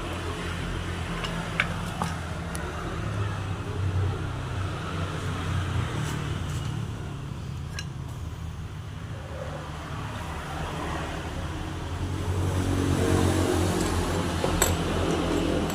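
Car engine running steadily, rising in level for a few seconds near the end, with a few scattered clicks over it.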